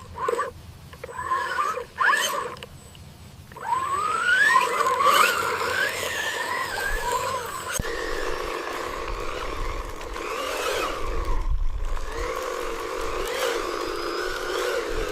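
Small electric motors and gearing of a radio-controlled construction machine whining, rising sharply in pitch about three and a half seconds in and then wavering up and down as it works, over a low rumble.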